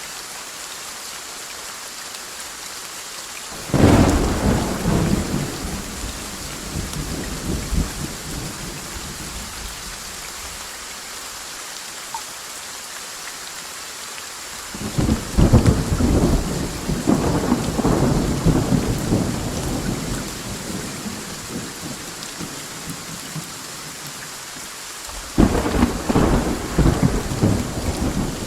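Thunderstorm: steady rain hiss with three peals of thunder. A sudden crack about four seconds in rumbles away over a few seconds, a long rolling rumble starts about fifteen seconds in and lasts several seconds, and another sudden crack comes near the end.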